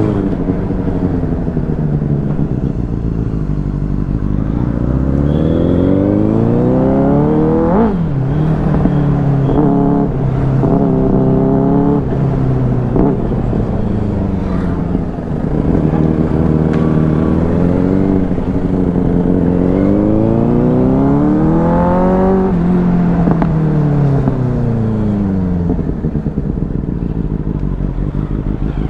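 Benelli 600i motorcycle's inline-four engine and exhaust under hard acceleration. The revs climb, then drop suddenly at each upshift, with the rise-and-drop pattern repeating. One last long climb peaks near the end, then the revs fall away as the bike slows.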